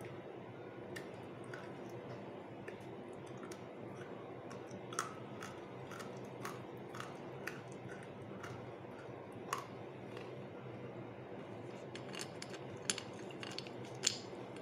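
Faint, scattered crunches of someone chewing a small piece of full-roasted shale clay stone, over a low steady hum. In the last few seconds a few sharper clicks come as stone pieces are picked up from a glass plate.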